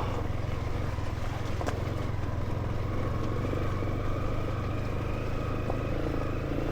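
Motorcycle engine running steadily while being ridden, with a low rumble and a couple of light knocks from the rough road surface.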